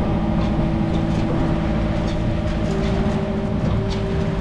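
Motorsailer's inboard engine running steadily under way, a constant low drone, with a few short high ticks over the top.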